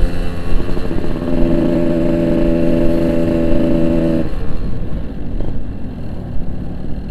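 Yamaha RX-King two-stroke motorcycle engine running at steady revs on the move. Its engine note drops away about four seconds in, leaving a low road rumble.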